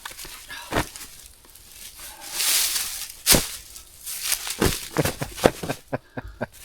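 Folding camp chair being assembled by hand: its fabric rustles and its frame gives a run of sharp clicks and knocks, the loudest a little past the middle, with several more close together near the end.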